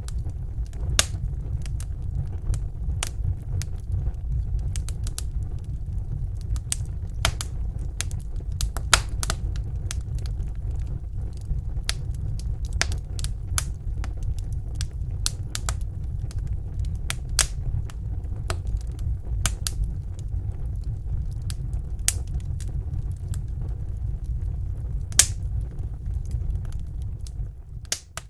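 Wood fire burning in a fireplace: irregular sharp pops and crackles from the burning logs over a steady low rumble of the flames, with a few louder pops.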